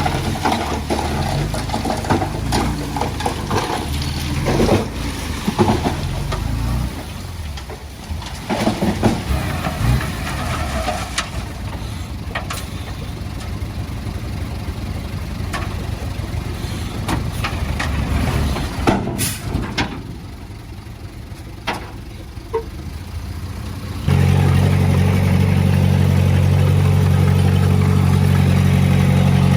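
Diesel heavy-equipment engines running, with scattered clanks and knocks. About three-quarters of the way through, an engine suddenly becomes much louder and holds a steady, even note.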